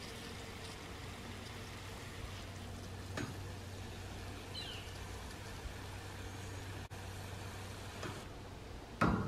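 Steady hiss of water spraying from a DRAMM rain wand on its shower setting over a low steady hum, with a click about three seconds in and a thump near the end.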